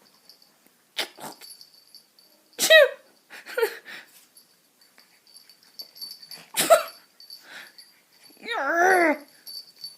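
Puppy giving a few short, high yips that fall in pitch, then a longer wavering whine near the end, with a click or two between.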